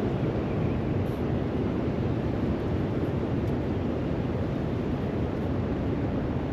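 Steady wind rumbling on the microphone, a constant low-heavy noise with no bird calls standing out.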